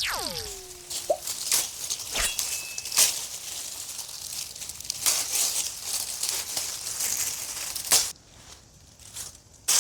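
Dry twigs and leaves being handled, with irregular crunching, rustling and sharp snaps for about eight seconds, quieter near the end. A brief downward-gliding tone sounds right at the start.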